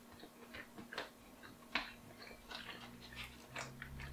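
Faint chewing of a mouthful of chicken and potato bake: soft wet clicks and smacks from the mouth every half second or so, with a spoon scraping in the food tray near the end.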